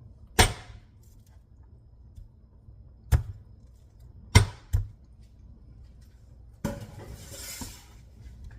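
Kitchen clatter: four sharp knocks of kitchenware, the last two close together, then a second or so of rushing noise near the end.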